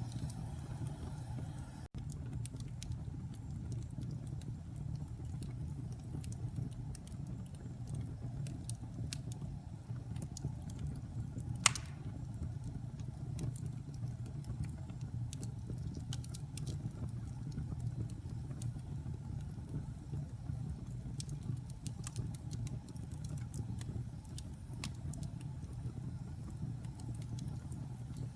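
Wood fire burning in a fireplace: scattered small crackles over a low steady rumble, with one loud pop a little before halfway.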